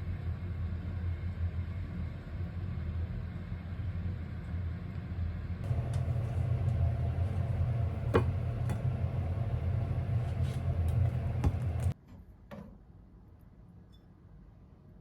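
A steady low droning hum with a few sharp clicks, cutting off suddenly about twelve seconds in and leaving a quiet room.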